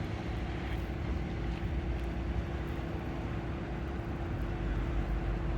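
A steady low rumble with a constant faint hum through it, like vehicle or traffic background noise.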